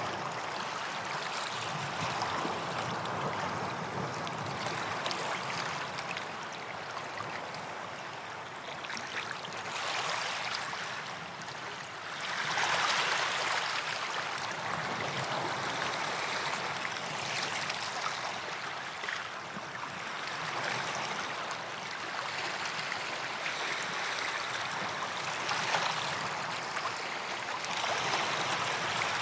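Small waves washing onto a sandy beach, each swell of foamy wash rising and easing every few seconds, the strongest about thirteen seconds in.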